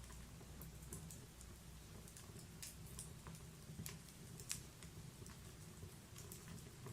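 Wood fire in a log-burning fireplace crackling faintly: irregular small pops and snaps over a low rumble, with one sharper pop about four and a half seconds in.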